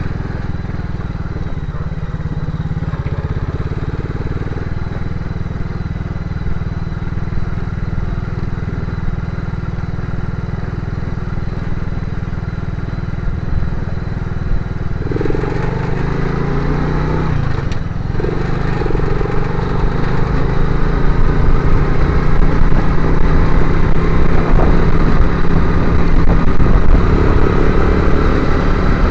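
Motorcycle engine running while riding, steady at first, then from about halfway picking up revs and getting louder, with a brief drop and rise in pitch like a gear change shortly after.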